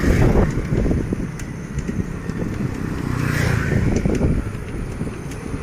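Wind buffeting the microphone along with a rough, uneven rumble from riding a bicycle, with a swell of louder hiss about three seconds in.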